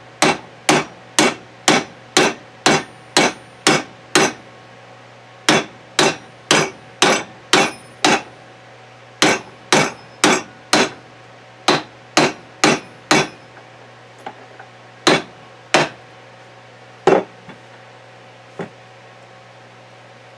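Hammer tapping metal, driving a bronze sleeve bushing onto a gearbox shaft. The strikes come in quick runs of about two a second with short pauses, then thin to a few lighter, spaced taps over the last several seconds.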